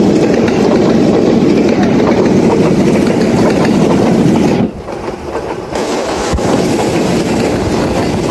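Electric multiple-unit commuter train running past close by: a steady rumble of wheels on the rails. About halfway through the sound drops away sharply for about a second, then carries on a little quieter.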